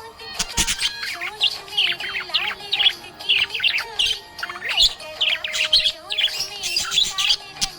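Budgerigars chirping and warbling in a rapid, continuous stream of short, quick chirps.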